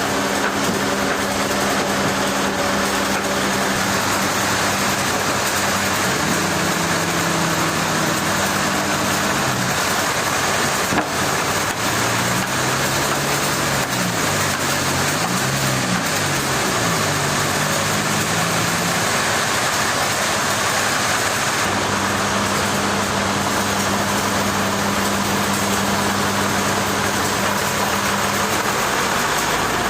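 A heavy machine's engine running loudly and steadily under a dense mechanical noise. Through the middle its pitch rises and falls several times as it is revved up and down, then it settles back to a steady note.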